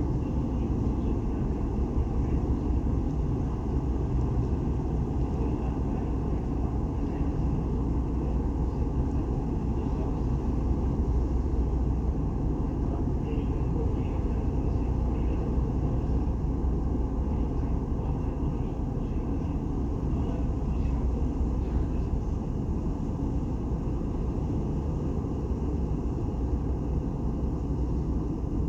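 Steady low rumble of the car ferry Taiko's engines as the ship comes into port, even in level throughout.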